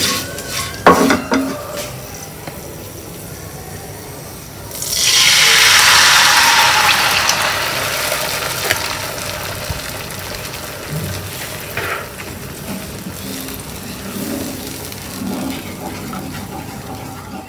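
A wooden spatula knocks and scrapes in a kadai of frying dry fruits. About five seconds in, the egg mixture is poured into the hot pan and sets off a loud sizzle that starts suddenly and slowly dies away as it is stirred.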